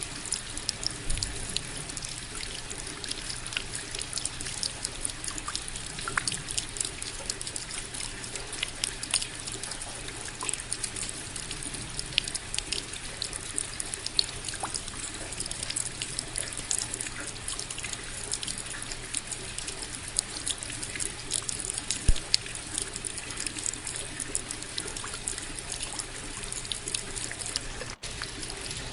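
Steady rain: a constant hiss with a dense patter of individual drops, briefly cutting out for an instant near the end.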